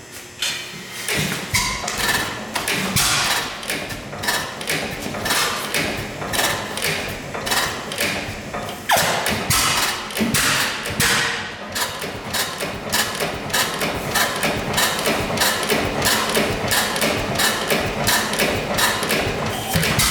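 Dempster 8 HP Grain Dealer's Special hit-and-miss gas engine running after its first start since 1950. It gives a fast, steady run of sharp bangs and mechanical clacks, roughly two a second.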